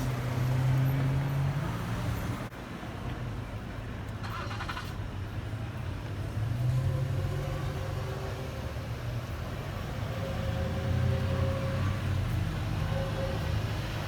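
A motor vehicle's engine running steadily, with a low hum and a second, higher steady tone that comes in about halfway through.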